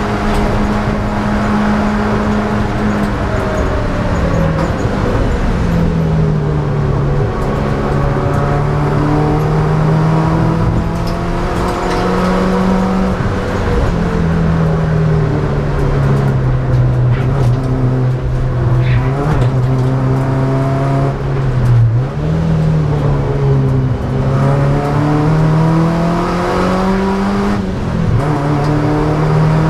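Ford Laser KQ's four-cylinder engine heard from inside the cabin, driven hard on a race track. The engine note climbs and falls several times as the revs rise through the gears and drop for the corners, over a steady rush of road and wind noise.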